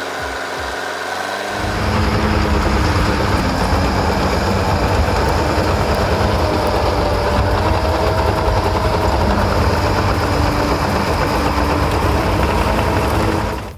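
Heavy machine's engine running steadily under load. It grows louder about a second and a half in.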